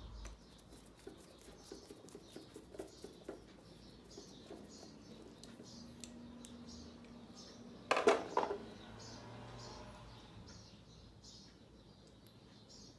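Scattered light clicks and taps, with a louder clatter of a few knocks about eight seconds in, over faint high chirps repeating every half second or so.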